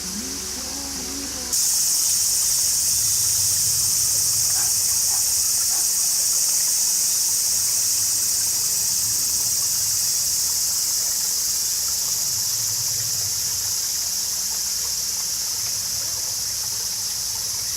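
Dense, steady, high-pitched chorus of insects that cuts in abruptly about a second and a half in and eases slightly toward the end. Music plays briefly before it.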